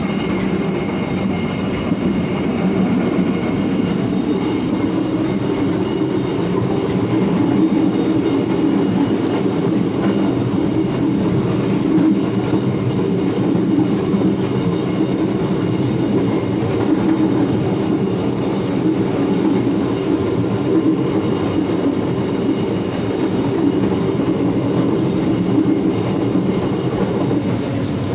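Bandung Raya economy passenger train running along the track, heard from inside the vestibule between carriages: a loud, steady rumble of wheels and carriage.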